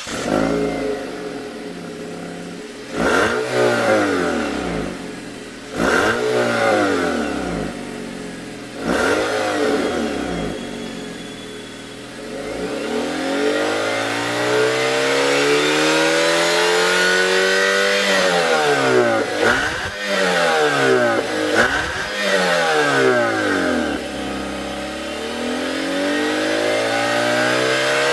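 Nissan Serena's 2.0-litre four-cylinder engine, heard through a Kakimoto KRnoble Ellisse aftermarket muffler, being revved while standing. It idles, then gives three quick blips about three seconds apart. Next it climbs slowly to high revs and holds there, gives a few more quick blips, drops back to idle near the end, and starts climbing again.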